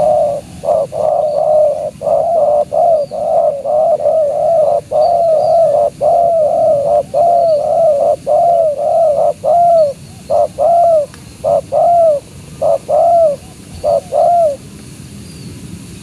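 Spotted dove cooing: a long run of quick coos, close together at first, then spreading out and stopping a second or so before the end.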